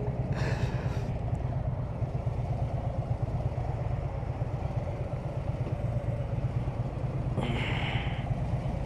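Harley-Davidson touring motorcycle's V-twin engine running steadily on the move, a pulsing low rumble. A short hiss rises over it about seven and a half seconds in.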